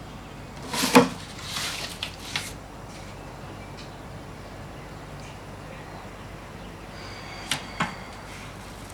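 A sharp knock about a second in, followed by brief rustling, then two short clicks near the end: small objects being handled.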